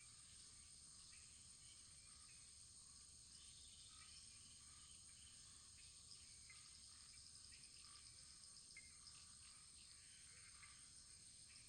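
Faint wood fire crackling: scattered small pops and ticks over a steady high hiss.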